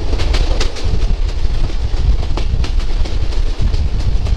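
A local passenger train running along the track, heard from on board: a steady deep rumble with irregular wheel clicks and clatter.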